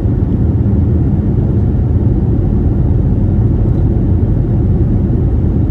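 Steady, loud low rumble of an Airbus A321neo LR's jet engines and airflow, heard from inside the passenger cabin in flight.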